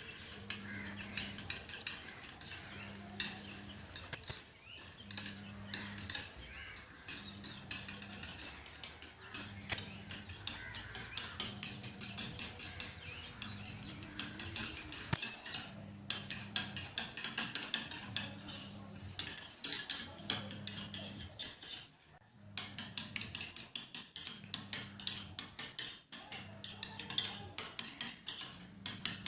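A spoon stirring and scraping in a small bowl, a steady run of quick clinks with a brief pause about three-quarters of the way through, as Cerelac and warm water are mixed into a thin, watery hand-feeding formula for a budgie chick.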